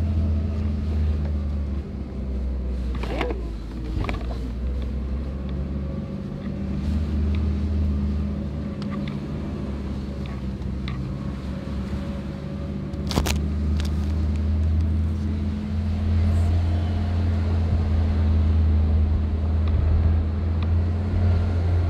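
Toyota Prado four-wheel drive's engine running steadily while driving, a low drone that grows louder in the last third. Three sharp knocks cut across it, two close together early on and a louder one about halfway through.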